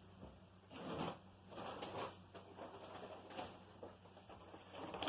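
Faint, irregular rustling and scraping handling noises in a few short bursts, with no vacuum motor running.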